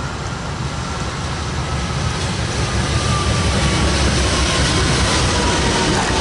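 A train rolling past with a steady rumble that grows louder over the first few seconds. A thin tone slowly falls in pitch.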